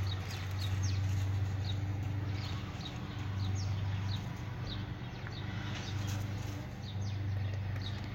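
Birds chirping: short, high, falling chirps repeated about once or twice a second, over a steady low hum.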